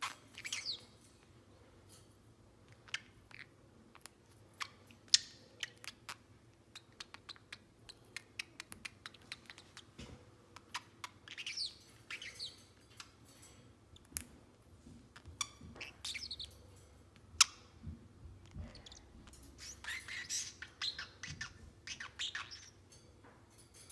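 Pacific parrotlet chirping: scattered short, sharp chirps and clicks, with several denser bursts of quick falling chirps.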